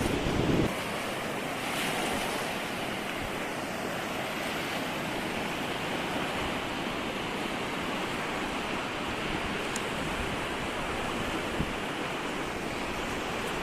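Steady wash of sea surf breaking on a beach. Wind rumbles on the microphone at the very start and drops away within the first second.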